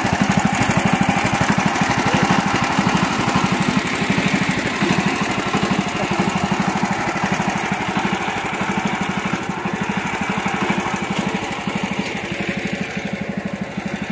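Mini tractor's engine running steadily while plowing a mud field, its firing pulses evenly repeating, a little quieter near the end.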